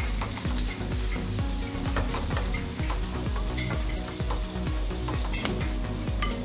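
Potato wedges sizzling as they fry in oil in a pan, with a fork clicking and scraping against the pan as pieces are lifted out.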